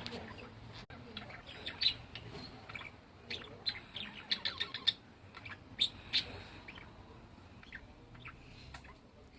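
Pet parrot chirping in many short, sharp calls, bunched through the first two-thirds and sparser near the end.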